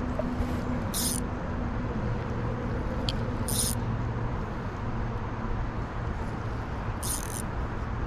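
Steady low motor rumble with a faint hum, marked by three brief high-pitched hisses.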